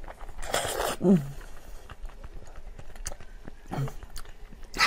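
Close-miked eating sounds: a few noisy slurps or bites of food, with two brief low, falling voice sounds, about a second in and near the end.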